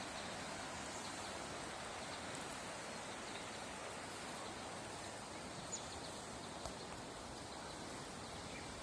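Steady rushing wash of water from the flooded creek, an even hiss with no breaks, with two faint high chirps past the middle.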